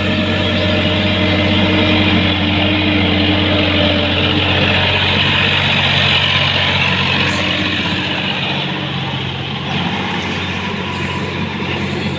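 Sonalika tractor's diesel engine running steadily at low speed. Its note shifts slightly about halfway through.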